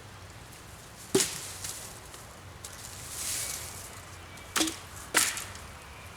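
Wooden branches cracking or knocking sharply: one hit about a second in and two close together near the end, each with a short woody ring.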